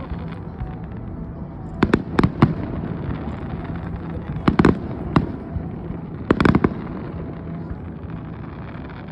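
Fireworks display: aerial shells bursting in three clusters of sharp bangs, two or three reports each, a couple of seconds apart, over steady background noise.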